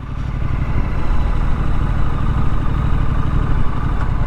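Triumph Street Scrambler's parallel-twin engine running under way, a steady low pulsing drone that builds up over the first second and then holds.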